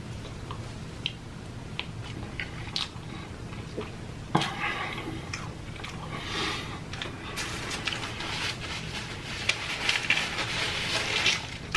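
Close-up eating sounds: a person biting and chewing food with wet mouth noises and crunches, over a low steady hum. A few scattered clicks come first, then a sharp snap about four seconds in, after which the chewing grows denser and louder.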